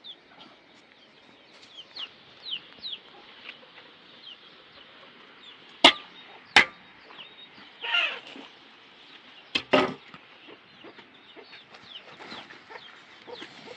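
Chickens clucking, with many short high chirps throughout. Two sharp knocks come about six seconds in and a double knock near ten seconds.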